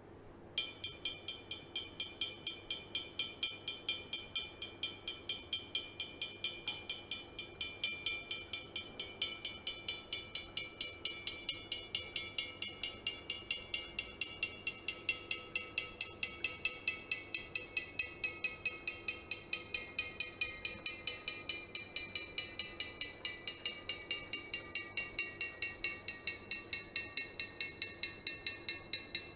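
A drinking glass tapped steadily, about three or four times a second, ringing with each stroke. The ringing pitch slowly falls as water is added to the glass: more water in the glass gives a lower note.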